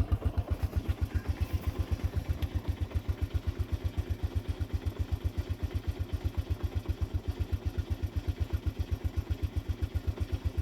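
1987 Honda TRX125's single-cylinder four-stroke engine idling with a steady, even beat, still on choke as it warms up after a cold start.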